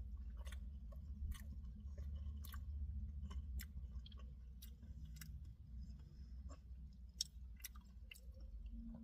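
A person chewing a mouthful of burger close to the microphone: irregular wet mouth clicks and small crunches, about one or two a second, over a low steady hum.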